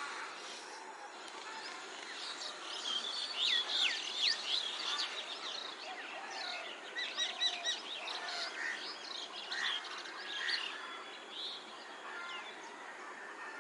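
Common myna calling: a busy run of quick whistles, chirps and clicks, loudest about three to five seconds in and again around seven to eight seconds, over steady background hiss.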